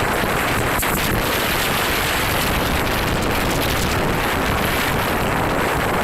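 Strong gusty wind from an approaching typhoon blowing over the microphone: a steady, loud rush of noise.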